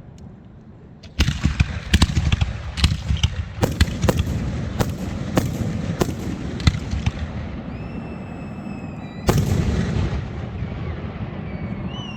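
Fireworks going off: a sudden volley of about a dozen sharp bangs starting about a second in, with rumbling between them, then high whistling tones, another loud bang, and more whistles near the end.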